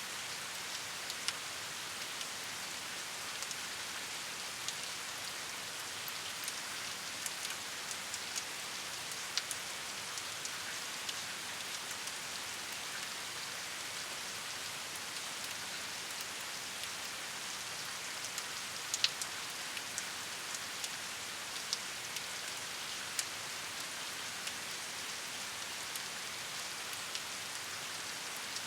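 Steady rain falling, a constant hiss with scattered distinct drops pattering on a surface, a few louder drops about two-thirds of the way through.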